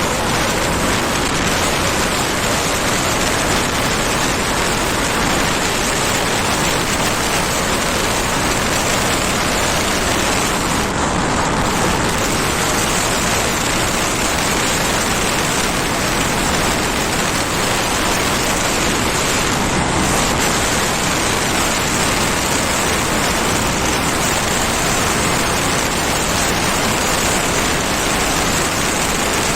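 Steady rush of wind on the microphone while riding a Honda Activa scooter, with no engine note standing out above it.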